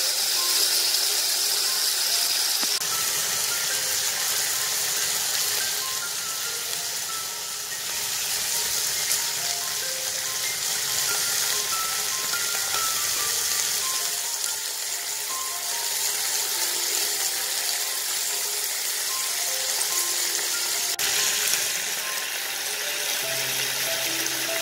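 Chicken satay skewers sizzling steadily on a nonstick grill pan, under background music with a light melody of single notes.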